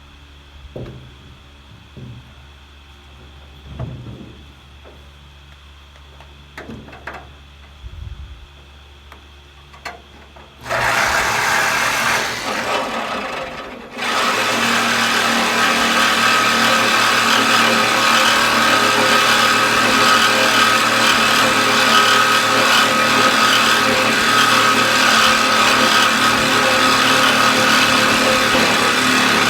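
A few soft knocks and handling sounds, then about ten seconds in a power tool starts cutting into a steel pickup-truck bed. It stops for a moment about three seconds later, then cuts on steadily and loudly.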